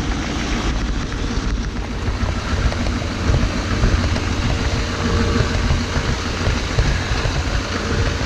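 Duramax L5P 6.6-litre V8 turbodiesel of a 2019 Chevy Silverado 2500HD idling just after a cold start, a steady grumble with the engine fan and belts adding a hiss and a faint whine. The owner holds that the clutch fan and belts should not sound like this on a 2019 truck.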